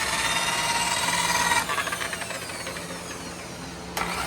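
Electric handheld polisher/buffer motor running with a steady whine, then switched off about a second and a half in, its pitch falling as it spins down; near the end it starts up again with a rising whine.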